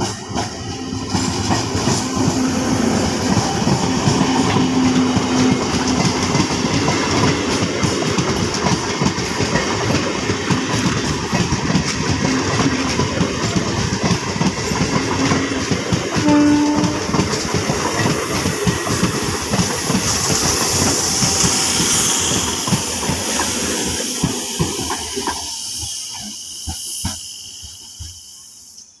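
MEMU electric multiple unit train running past close by, its wheels clattering steadily over the rail joints. The clatter fades away near the end as the train moves off.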